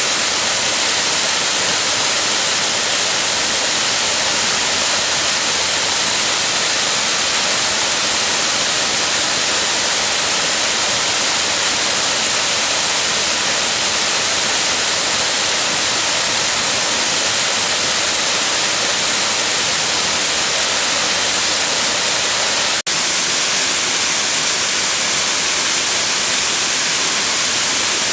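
Waterfall: the steady, loud rush of falling water, with a split-second dropout about 23 seconds in.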